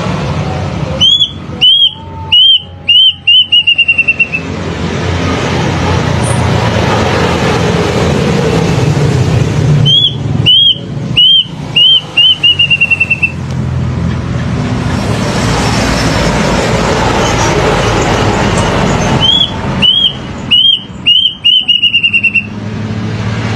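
Plaintive cuckoo (kedasih) singing three times: each phrase is a run of eight to ten whistled notes that speed up and fall slightly in pitch. A steady background noise runs underneath.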